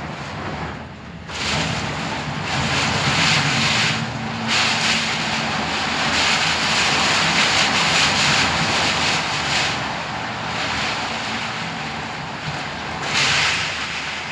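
Typhoon-force wind gusting outside an apartment window: a loud rushing noise that swells about a second in, dips briefly twice, and surges again near the end.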